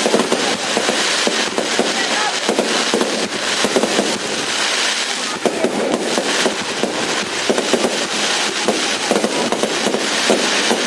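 New Year's Eve fireworks going off in a dense, continuous barrage of many rapid bangs and crackles, with no break.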